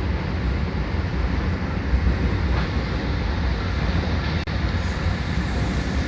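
A Penataran/Dhoho local train running on the rails with a steady, loud low rumble and rail noise.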